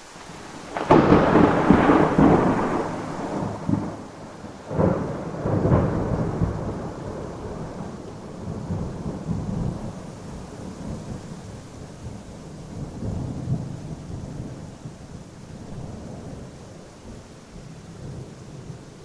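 Thunderstorm: a sudden loud thunderclap about a second in rolls on for a couple of seconds, two more sharp peals follow around five and six seconds in, then a low rumble slowly fades, all over a steady hiss of rain.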